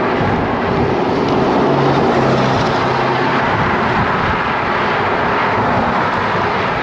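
Strong crosswind rushing steadily over the microphone of a moving road bicycle, with road traffic beneath it; a low engine hum passes between about one and four seconds in.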